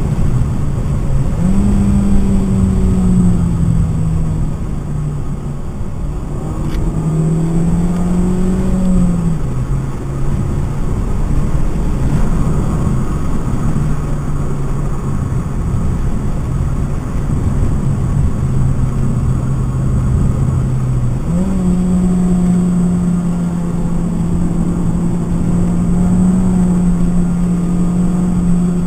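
Stock 2012 Mitsubishi Lancer's four-cylinder engine, heard from inside the cabin while lapping a race track. The engine note climbs, holds and drops back in steps several times, then rises at about three-quarters in and stays high. Steady road and tyre noise runs underneath.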